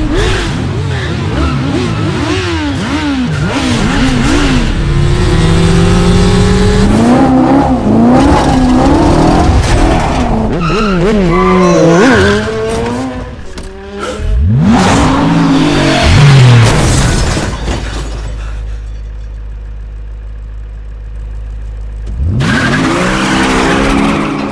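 Car chase sound mix: car engines revving hard, their pitch rising and falling with gear changes, with tyres squealing and skidding. About 18 s in it drops to a low rumble for a few seconds, then engine revving picks up again near the end.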